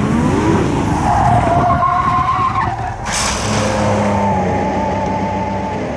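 Formula 1 car skidding with its tyres squealing over the engine, with a sudden rush of noise about three seconds in: the car spinning after being pushed too hard into a corner.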